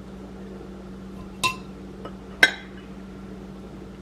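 Two clinks of dishes or utensils knocking together, about a second apart, the second louder and ringing briefly, over a steady low hum.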